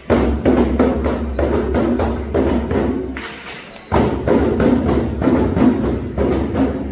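Hand drum beaten in a steady rhythm of about three strokes a second, as part of live music. It drops off briefly about three seconds in, then starts again.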